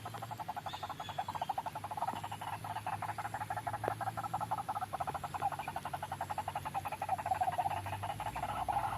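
White-breasted waterhen (ruak-ruak) lure call: a continuous, rapid run of croaking pulses, many to the second.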